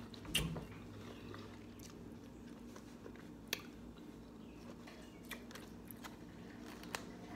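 Quiet close-up chewing of soft canned green beans, with small wet mouth clicks. A few short clicks of a metal fork in a foam takeout container; the loudest is about half a second in, another comes about three and a half seconds in.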